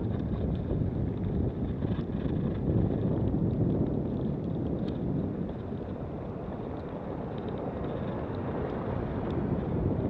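Steady low rumbling noise of storm wind buffeting the microphone, with a few faint ticks on top.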